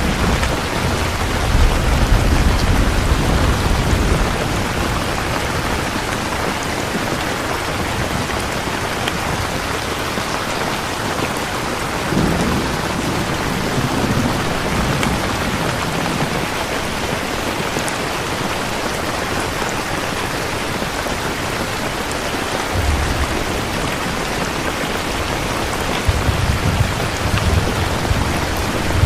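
Steady rain falling on a surface, an even hiss throughout, with low rumbles of thunder swelling at the start, in the middle and near the end.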